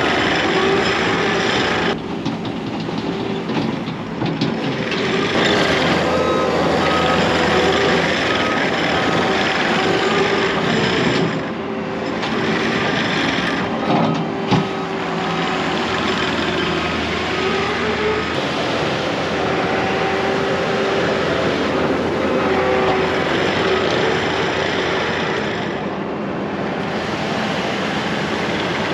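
Diesel skid steer running under load, with a reversing alarm beeping at times.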